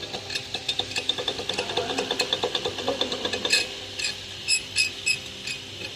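A failed water pump on a 2018 GMC Sierra V8 being worked by hand, giving rapid metallic clicking and rattling at about seven clicks a second. Near the middle the run gives way to a few louder, separate clicks.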